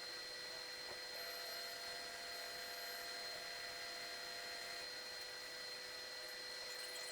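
Steady hiss of blowing air with several faint, steady whining tones; another slightly higher whine joins about a second in and stops a few seconds later.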